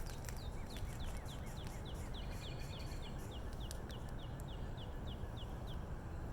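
A songbird calls a clear, high note that slides downward, repeated evenly about three times a second for nearly six seconds. Underneath is a steady low rumble of outdoor background noise.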